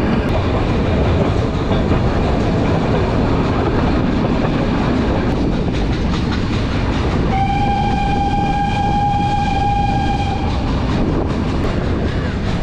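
Nilgiri Mountain Railway train running with a steady rattle and clatter of wheels on track. A little past the middle, the locomotive's whistle sounds one long, steady note for about three seconds.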